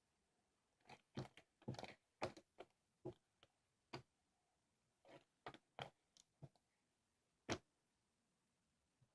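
Sticky slime being handled by hand, giving irregular sharp wet clicks and short crackly pops in clusters, with quiet gaps between them and one louder pop near the end.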